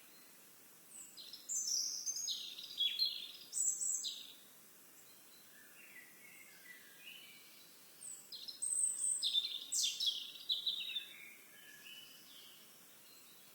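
A songbird singing two long, rapid, jumbled phrases of high notes, the first about a second in and the second about eight seconds in, over a faint steady outdoor hiss.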